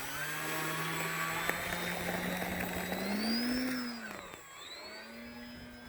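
RC airplane's motor and propeller running with a high whine above it. The pitch climbs about three seconds in, then falls back and settles as the throttle is eased.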